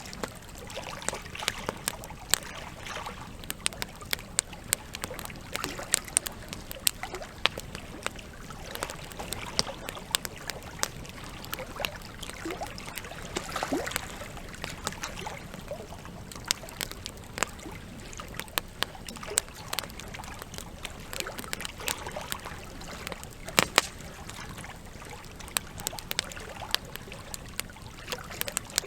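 Log campfire crackling, with irregular sharp snaps over a steady trickle of water; two louder snaps come close together about two-thirds of the way in.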